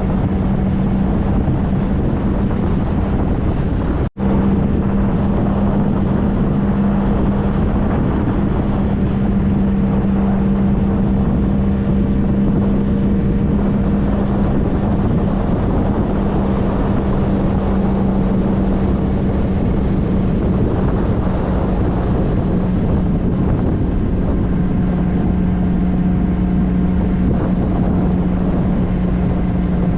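2013 Triumph Trophy SE's three-cylinder engine running at a steady cruising speed, with wind noise on the microphone. The sound cuts out for an instant about four seconds in.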